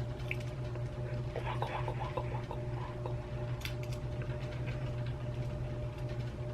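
Steady low electrical hum, with a few faint clicks and taps from handling the small plastic parts of a computer mouse being put back together.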